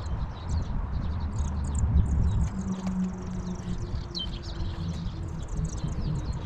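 Many small birds chirping continuously in quick, overlapping calls, over a steady low rumble.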